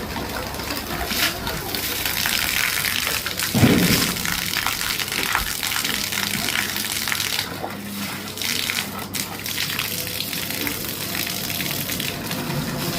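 Water running and splashing, with a brief louder low splash about four seconds in.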